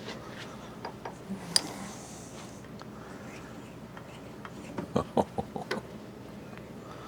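Light metallic clicks and knocks of small steel tools and parts being handled on a workbench: a single sharp click, then a quick run of five or six clinks near the end.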